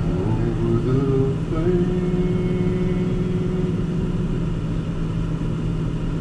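Car cabin noise while driving: a steady low rumble of engine and tyres, with a few held pitched notes over it, one sliding up and holding for a couple of seconds.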